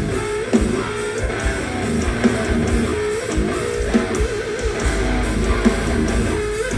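Live heavy band music: a distorted electric guitar riff over repeated drum hits, with no vocals.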